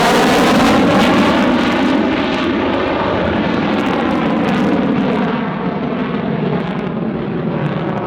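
F-35 Lightning II fighter jet flying past during a quick-climb manoeuvre, its single turbofan engine giving a loud, rushing jet noise. The noise is loudest in the first seconds and slowly fades as the jet climbs away.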